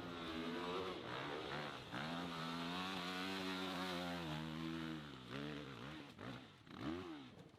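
Motorcycle engine revving hard, its pitch climbing and holding high for several seconds, then dropping about five seconds in, followed by two short throttle blips near the end.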